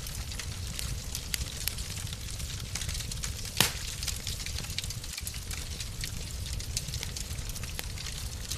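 Wood fire crackling in a fireplace: many small crackles over a steady hiss and a low rumble, with one louder pop about three and a half seconds in.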